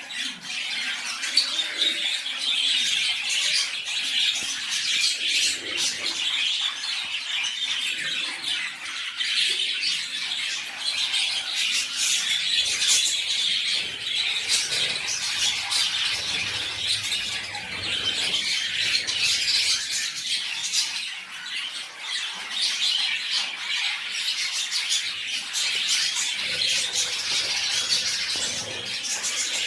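Many small pet birds chirping and squawking at once: a dense, steady chatter with no break.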